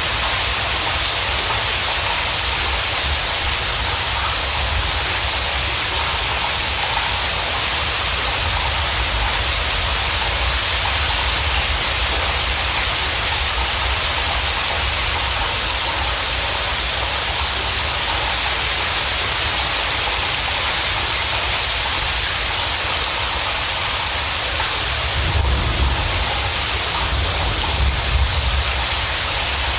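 Steady rain falling, an even hiss of drops, with a couple of low rumbles swelling up near the end.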